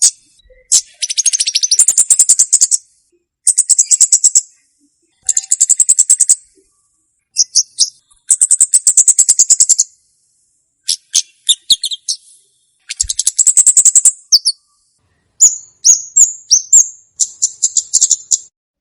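Komade birdsong: a series of high, rapid buzzy trills about a second or two long, repeated with short pauses, followed near the end by quicker separate chirps. A recorded call track for luring wild birds and training young captive ones.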